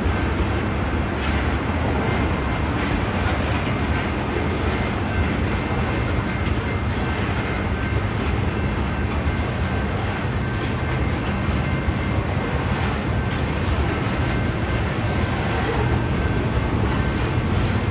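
Loaded rock gondolas of a freight train rolling past: a steady rumble of steel wheels on rail, with a faint thin high ringing held over it.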